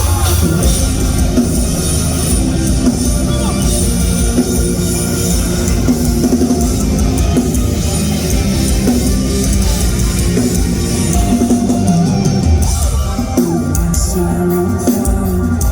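Live rock band with heavy drums and distorted guitars playing the instrumental opening of a song, heard loud through a concert sound system.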